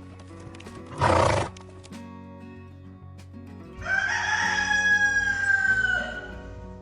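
A rooster crowing once, one long held call of about two and a half seconds over background music. About a second in there is a short, noisy half-second burst.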